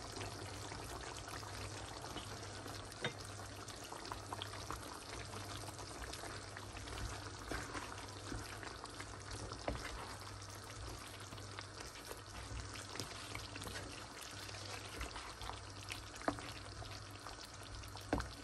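Chicken curry sizzling steadily in a pan on a gas stove, with occasional light knocks of a wooden spatula stirring it against the pan.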